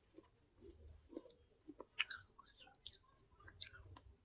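Close-miked chewing of crunchy baked clay from a clay handi pot, with scattered short sharp crunches and clicks, the loudest about two seconds in.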